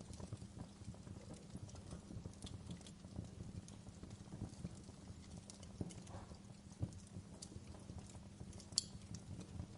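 Wood fire crackling in a fireplace: a steady low rumble of dense small pops with scattered sharp snaps, the loudest snap near the end.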